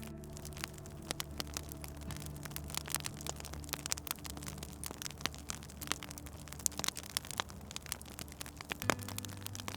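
Wood fire crackling, with dense irregular pops and snaps over a low steady hum that shifts in pitch a few times.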